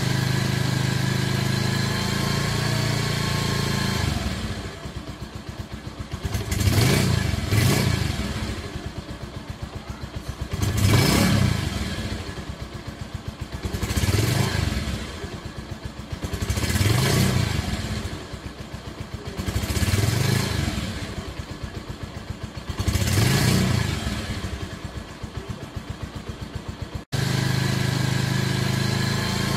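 Motorcycle engine running. It is steady at first, then repeatedly swells and falls back every three to four seconds, and drops out suddenly near the end before steady running resumes.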